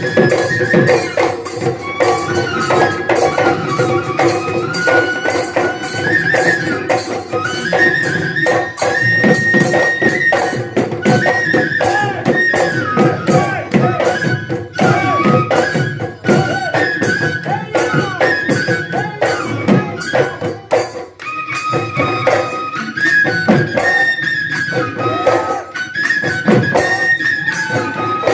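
Assamese Bihu folk music: a flute melody stepping up and down over fast, dense drum and cymbal beats.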